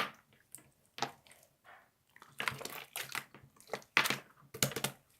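Irregular sharp clicks and crackles close to the microphone, coming in uneven clusters, thickest in the second half.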